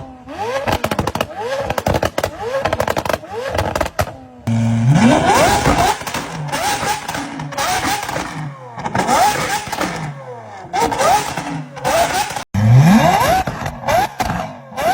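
Supercar engines revving hard and accelerating through the gears, the pitch climbing in repeated sweeps and dropping at each shift. The sound is edited from several clips, with abrupt cuts about four and twelve seconds in.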